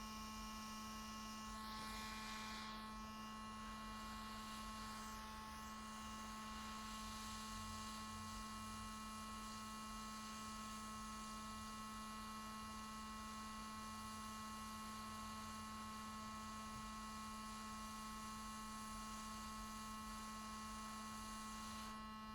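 A steady, faint electrical hum with a light hiss, unchanging throughout.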